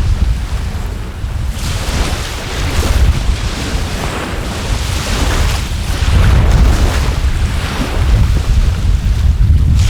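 Wind buffeting the microphone in a heavy low rumble, over surf washing on a beach that swells and fades every few seconds.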